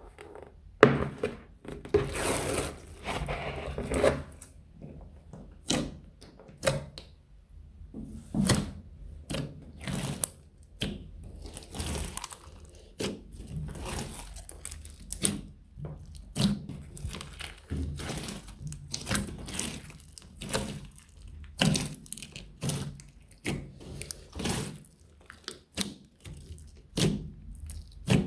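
Slime being mixed and squeezed by hand: an irregular string of short crackles and sticky pops, about one or two a second.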